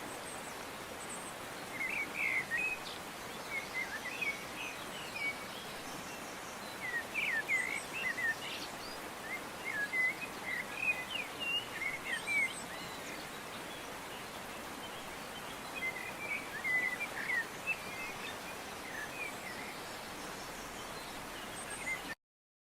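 Small birds chirping in short runs of quick notes, several times over, above a steady outdoor hiss. The sound cuts off near the end.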